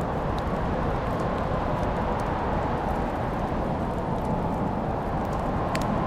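Wood fire burning in a fireplace: a steady low rush of flames with a few faint crackles, the clearest pop near the end.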